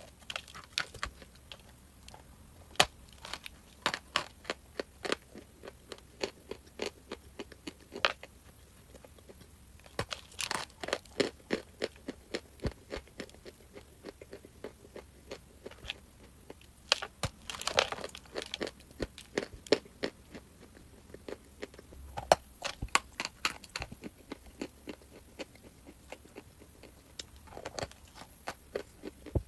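Crunchy Anko chalk being bitten and chewed close to the microphone: many sharp, irregular crunches, coming thickest in several bursts of bites.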